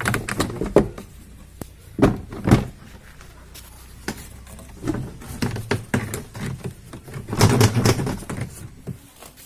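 Knocks and thuds of washing-machine parts being handled and taken apart, with two knocks about two seconds in and a denser run of knocking and clatter near the end.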